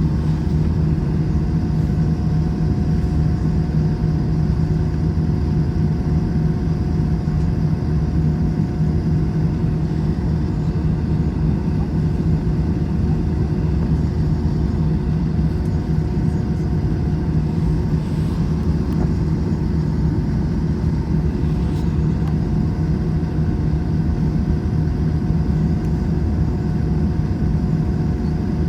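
Steady jet engine and cabin noise inside an Airbus A321: a constant low rumble with a fixed drone that does not change pitch or level.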